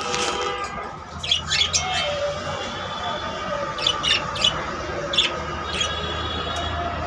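Cockatiel giving short, sharp squawks in quick clusters, a few together about a second in and again around four seconds in, then single calls, over a steady low hum.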